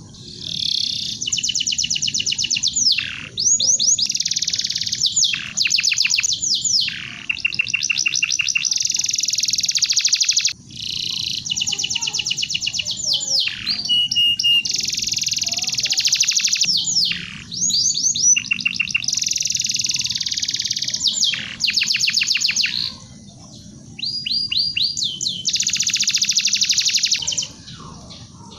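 Domestic canary singing: long, fast trills and rolling runs of rapidly repeated notes in phrases of a few seconds, broken by short pauses.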